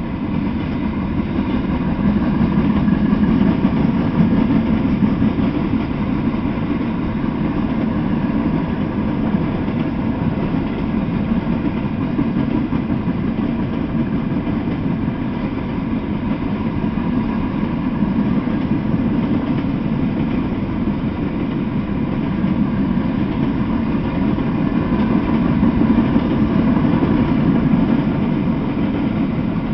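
Freight train of loaded coal hopper cars creeping past at a crawl, with a steady low diesel engine rumble.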